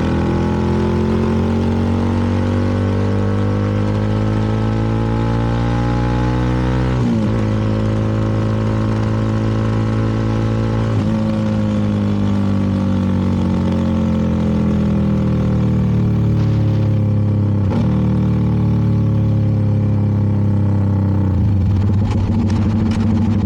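CFMoto 300NK's single-cylinder engine under way, rising in pitch for about seven seconds. Brief breaks follow at about 7, 11 and 18 s as the throttle is closed, with the pitch sinking slowly between them, and it settles to a lower, rougher running near the end.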